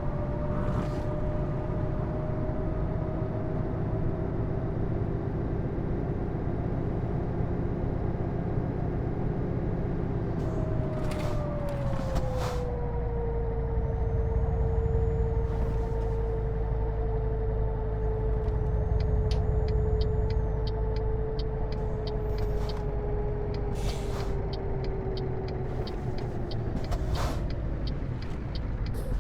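Scania R730's V8 diesel truck running on the road: a steady low rumble with a whine that drops in pitch about twelve seconds in, then sinks slowly. Short clicks come and go, more often in the second half.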